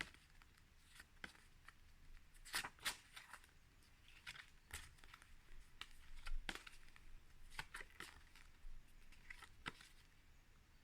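Faint, scattered clicks and rustles of paper flashcards being handled and shuffled, in a quiet small room.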